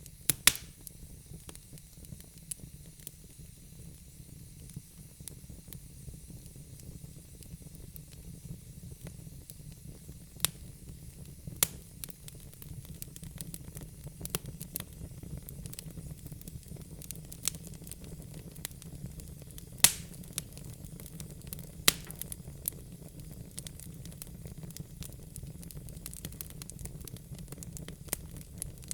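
Burning logs in a fireplace crackling steadily over a low, even rumble, with a handful of louder sharp pops spread through.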